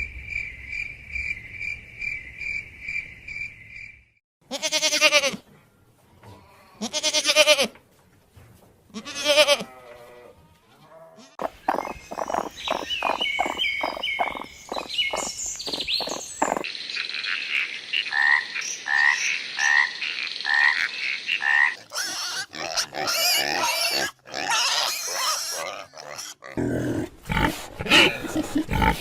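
Calls of several different animals one after another, cutting from one to the next: first a run of short high calls repeated about twice a second, then three or four long calls, then a fast series of pulses, then a string of short chirps.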